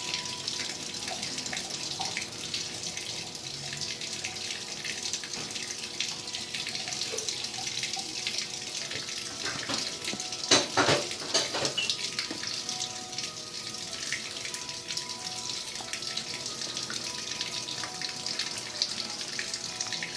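Maytag washing machine in a wash cycle, water rushing and sloshing steadily in the tub with a faint motor hum underneath. A louder burst of splashing comes about halfway through.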